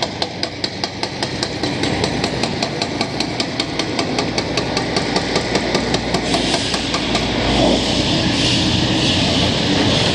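Construction machinery at work: a rapid, regular mechanical hammering, about five blows a second, over a running diesel engine. About six seconds in the hammering stops and a louder, steady machine noise takes over.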